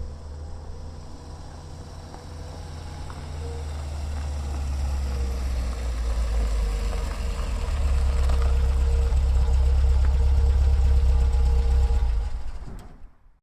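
A vehicle engine running with a low rumble and a steady hum. It grows louder over the first several seconds, holds, then fades out near the end.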